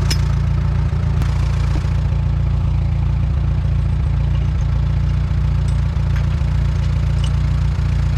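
Allis-Chalmers WD tractor's four-cylinder engine idling steadily with a deep, even rumble. A few faint clicks sound over it.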